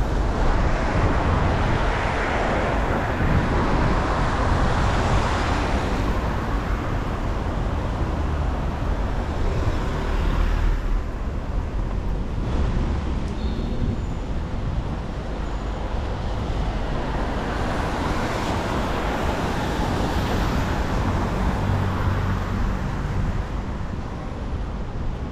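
City street traffic: vehicles passing in two louder waves, early and again later on, over a steady low rumble of wind on the microphone.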